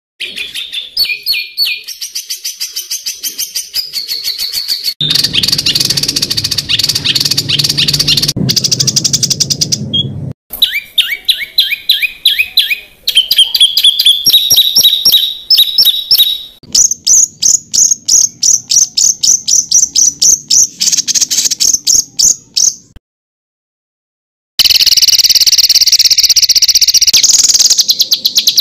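Songbird song edited for masteran: rapid strings of harsh, sharply repeated high notes and trills ('tembakan kasar'). Passages change abruptly from one recording to the next, with a silent gap of about a second and a half about three-quarters of the way through.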